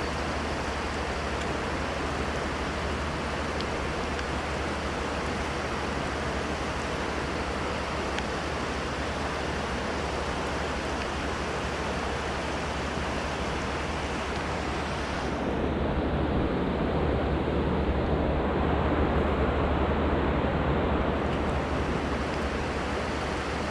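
Steady rushing of river water. About two-thirds of the way through it turns louder and duller for several seconds, then settles back.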